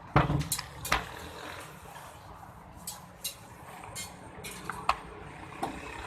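Sharp knocks and clinks of cooking utensils, several loud ones within the first second, then scattered lighter ones, over a steady low hum.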